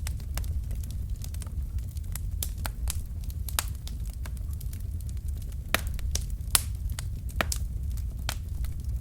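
Wood fire burning in a fireplace: a steady low rumble of flame with irregular crackles and sharp pops from the burning logs, a few louder pops in the second half.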